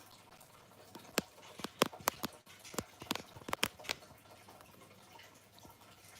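A quick run of about a dozen sharp clicks and knocks over a few seconds, from metal and plastic parts of a rolling desk being handled during assembly.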